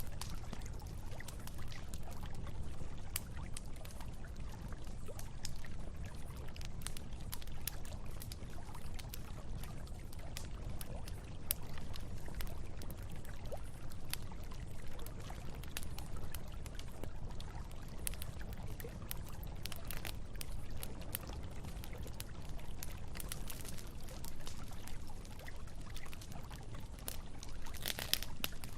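Campfire crackling, with scattered sharp pops, over the steady rushing of a river.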